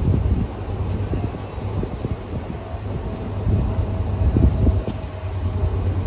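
Diesel locomotive of an arriving passenger train, its engine giving a steady low rumble as it draws into the station.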